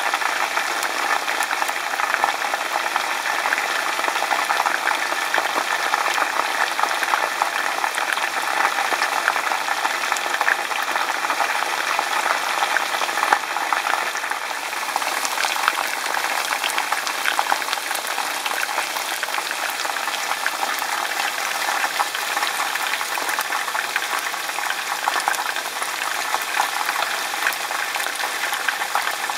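Chicken pieces frying in hot cooking oil in a skillet: a steady, dense sizzle and crackle of bubbling oil.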